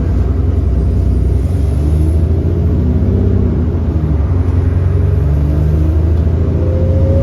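Bus's 6.7 litre Cummins ISB diesel engine running under load, a heavy steady rumble, its note shifting up and down in pitch as it pulls through the ZF six-speed automatic gearbox. The bus has an exhaust leak.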